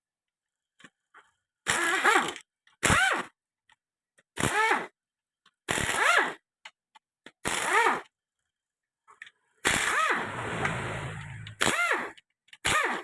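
Pneumatic air tool fired in about eight short bursts, its pitch rising and falling as it spins up and down each time, with one longer burst about ten seconds in, while loosening parts to strip a motorcycle's clutch.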